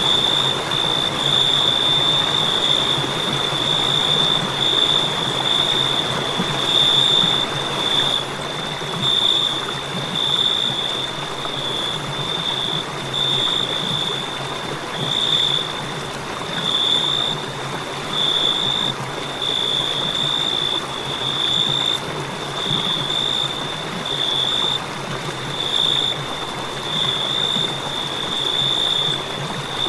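Crickets trilling without a break in one high, steady tone that swells and fades about once a second, over a steady hiss.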